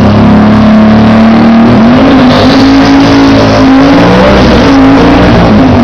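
Twin-turbocharged Plymouth Road Runner engine running very loud at high, fairly steady revs, its pitch rising and dipping slightly several times.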